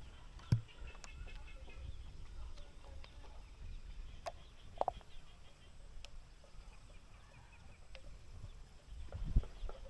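Chickens clucking in short calls, with two low thuds, one just after the start and one near the end.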